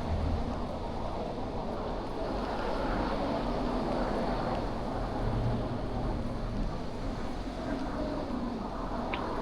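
Road traffic on a city street: a steady hum of passing vehicles with a low rumble, and a single short tick near the end.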